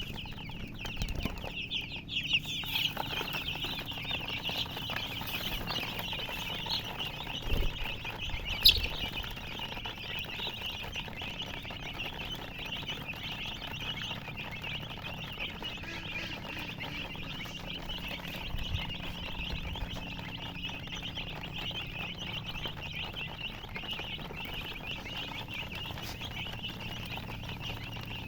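A brood of baby chicks peeping continuously, many high-pitched chirps overlapping, with a steady low hum underneath. A single sharp knock comes a little under nine seconds in.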